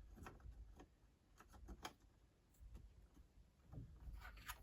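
Quiet handling with a few faint clicks and taps: a RAM module being fitted into the iMac's memory slot. The clicks come once near the start, in a small cluster a little before the middle, and again near the end.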